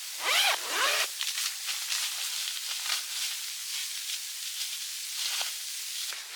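A short sweeping scrape about half a second in, then rustling and hiss with scattered small clicks.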